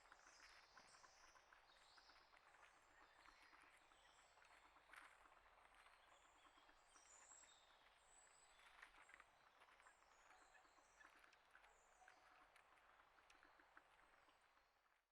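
Faint wild birds chirping and twittering, mixed with many small ticks and clicks, fading out at the very end.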